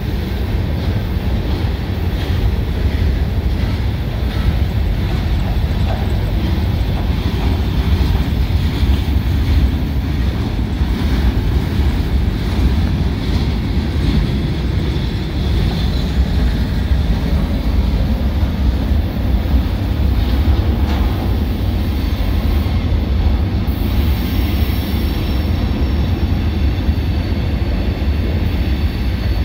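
Freight train cars, tank cars and boxcars, rolling past at close range: a steady rumble and clatter of steel wheels on the rails.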